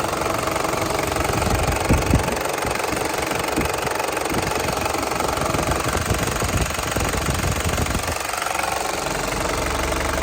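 The Toyota Land Cruiser Prado KZJ95's 1KZ-TE 3.0-litre four-cylinder turbo diesel idling with a steady diesel clatter. A few low thumps come through, the loudest two close together about two seconds in.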